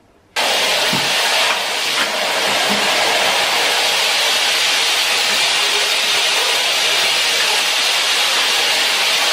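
A loud, steady rushing hiss that starts abruptly just under half a second in and holds evenly, with a couple of faint knocks in the first two seconds.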